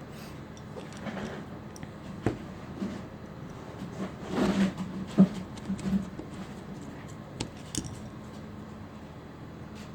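Light handling noises: a few sharp clicks and knocks, with a short scraping rustle about four and a half seconds in, over a steady low hum.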